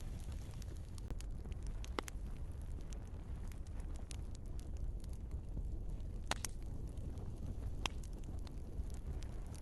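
Wood fire burning in a fireplace, with a steady low rumble under scattered crackles and pops from the logs; the sharpest pops come about two seconds in, past six seconds and near eight seconds.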